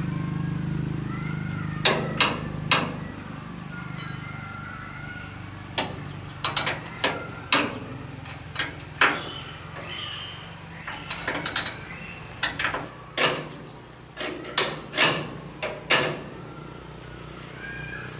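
A hammer striking metal, about twenty irregular blows with a short ring after each, some coming singly and some in quick groups of two or three. A low steady hum fades away under the blows during the first half.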